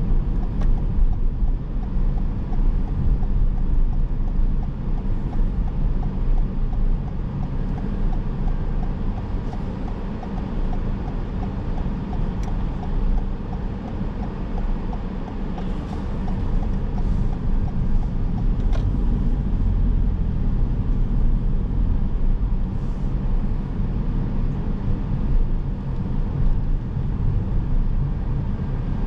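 A car driving, with a steady low rumble of road and engine noise. A faint, regular light ticking runs through roughly the first ten seconds.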